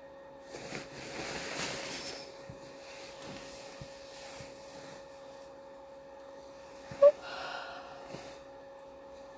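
A horse snorting, a breathy blow of about a second and a half, over a faint steady hum; a sharp knock about seven seconds in is the loudest sound.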